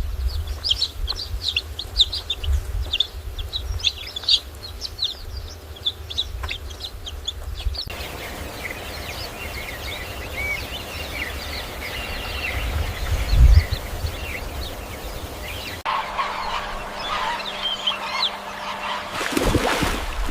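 Birds chirping in many short, quick calls, with clucking fowl-like calls. The sound changes abruptly twice, about 8 s and 16 s in, and each section has a different chirping pattern over a low rumble. A louder, rougher sound comes in near the end.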